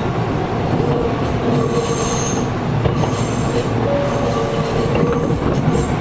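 Gakunan Railway 7000 series electric car heard from inside while running, with a steady rumble of wheels on track. Faint high-pitched wheel squeal comes in about two seconds in and again around four and a half seconds. The car's air conditioning runs underneath.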